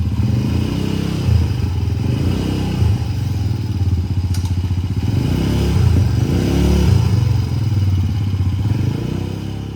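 A small engine running with an even, fast firing beat, growing somewhat louder around six to seven seconds in, with a couple of brief thumps in the first few seconds.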